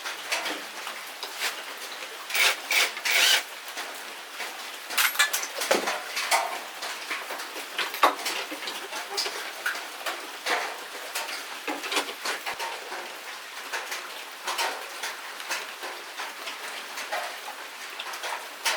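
Irregular clinks, taps and clatters of small metal motorcycle parts and hand tools being handled, with a few louder knocks about two to three seconds in and again about five seconds in.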